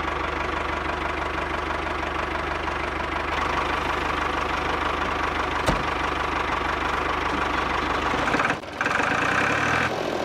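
Small electric motor of a homemade model cement truck running steadily with a fine rapid rattle, a sharp click in the middle; it dips briefly near the end and then runs on with a higher whine.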